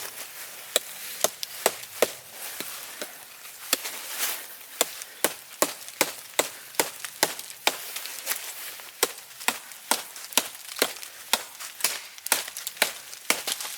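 Wood being chopped into small pieces for a fire: a steady run of sharp chopping strikes, about two to three a second.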